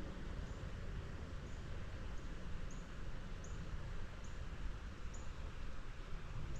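A small bird giving short, very high chirps, repeated about once or twice a second at uneven intervals, over a steady low outdoor rumble.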